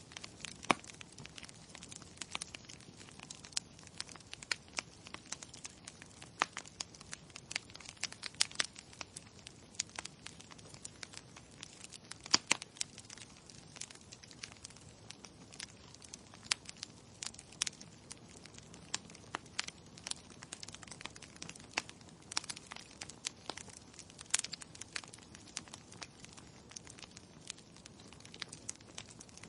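Wood fire crackling in a fireplace: irregular sharp pops and snaps, a few to several a second, over a faint steady hiss.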